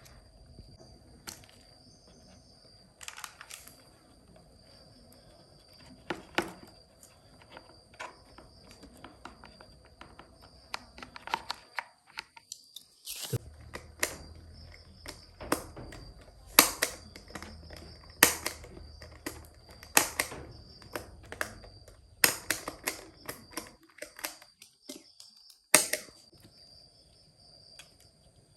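Irregular sharp clicks, taps and knocks of hands working on small hard parts. They grow louder and come more often from about halfway through.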